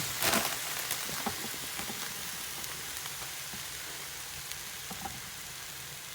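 Chicken and vegetables frying in a pan, a steady sizzle, with a few light knocks of a utensil early on.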